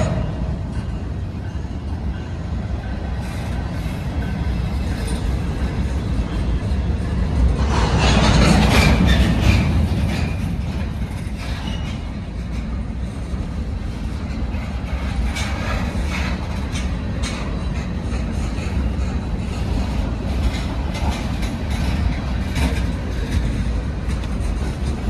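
Train rolling past with a steady rumble and scattered clicks of wheels over rail joints, loudest about eight to ten seconds in.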